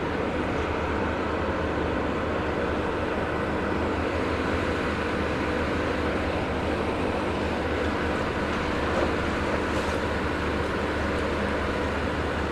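Steady running of the diesel engine of a long-reach demolition excavator at work, with a faint knock about nine seconds in.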